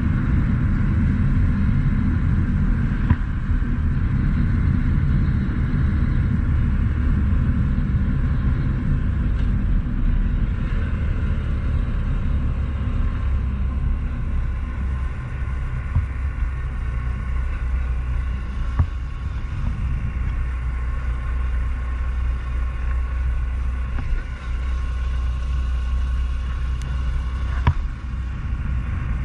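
Honda CT125 Trail's single-cylinder four-stroke engine running steadily at cruising speed, under a heavy low rumble of wind on the microphone. There are a few brief clicks.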